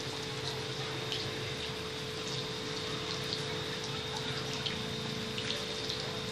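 Refrigerator's sealed R134a system running while being charged: a steady hum with a constant hiss and scattered faint crackles of refrigerant flowing.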